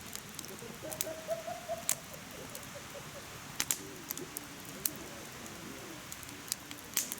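Wood fire in a mesh fire stand crackling: irregular sharp pops, about eight in a few seconds, over a soft steady hiss of burning.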